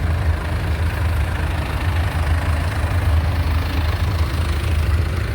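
Vintage tractor engine idling with a steady low rumble.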